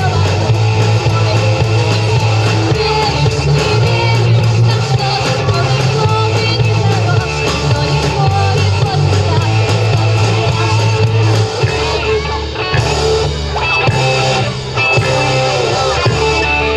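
Rock band playing, with electric guitar, a bass line moving between held notes, and drums with steady cymbal ticks.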